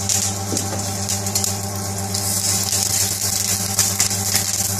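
Egg omelette frying in a skillet on a gas burner: a steady sizzle with fine irregular crackles, over a steady low hum.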